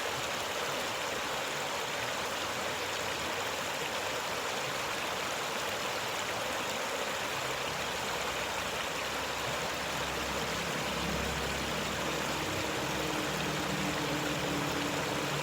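Shallow, clear river flowing, a steady rushing and burbling of water. From about halfway in, a faint low hum joins underneath the water.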